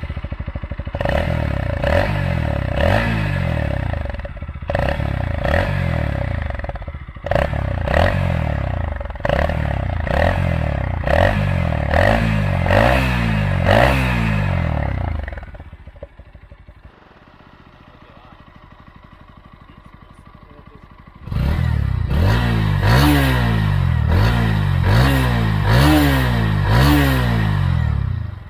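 Bajaj Pulsar NS160 single-cylinder engine revved in quick repeated throttle blips, about one a second, firing through a tin can taped in front of the silencer outlet to change the exhaust note. About halfway through it drops to a much quieter steady running for around five seconds, then the blipping starts again.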